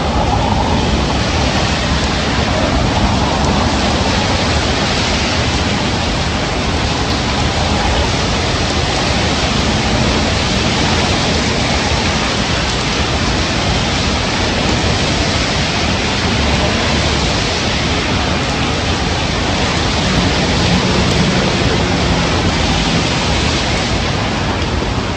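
Heavy rain falling in strong wind: a loud, steady rushing noise with no breaks.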